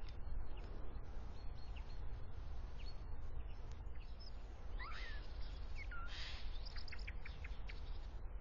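Birds calling: a few short whistled notes that glide up and down about five to six seconds in, then a quick run of short high chirps, over a steady low rumble.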